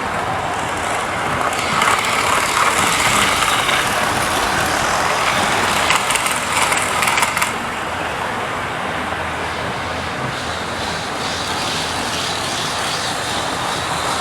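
Model railway trains running on the track, a steady noisy whirr and rumble of motors and wheels on rail, louder for the first half, with a run of quick clicks about six to seven seconds in.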